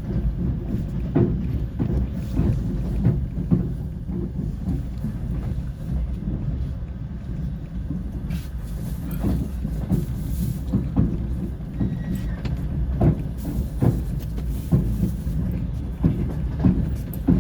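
Passenger train running along the track: a steady low rumble with irregular sharp knocks of the wheels over rail joints.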